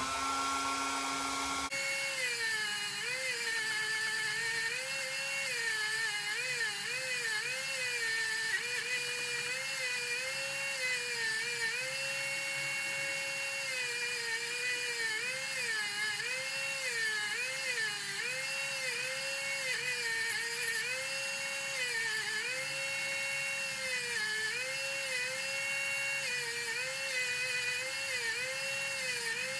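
Small high-speed electric rotary tool spinning up, then running with its pitch dipping and recovering about once a second as it is pressed against and eased off the work.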